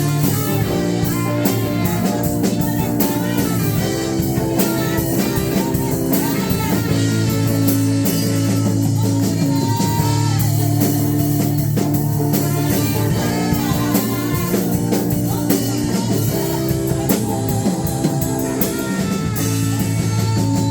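Live worship band music with guitar and drum kit.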